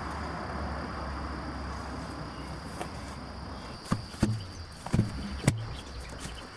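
Steady high insect drone with a low hum underneath, then four sharp knocks in quick succession in the second half.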